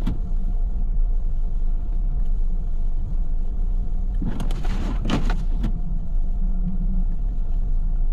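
Car driving on a snowy road: a steady low rumble of engine and tyres, with a brief rushing swish about four to five and a half seconds in.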